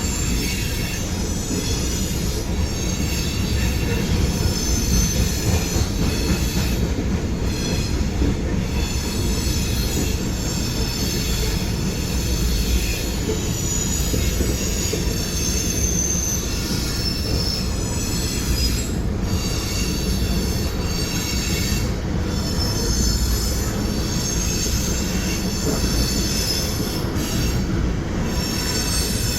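Freight train cars rolling past with a steady low rumble. Their wheels squeal high-pitched on the rails, fading out briefly now and then.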